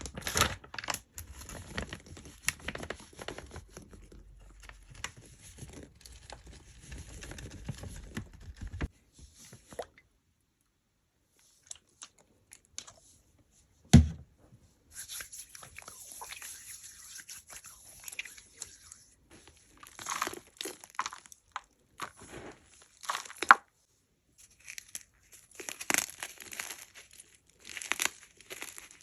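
Hard blocks of gym chalk being crunched and crumbled, a dense crackling of small crisp snaps in clusters. There is a short pause about a third of the way through, and one heavy knock about halfway.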